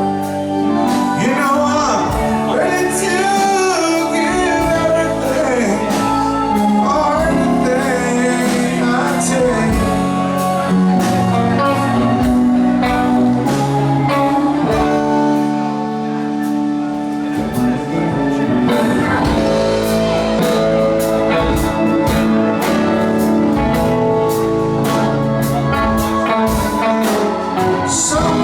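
Band playing a song live, with lead singing over guitar, bass and drums.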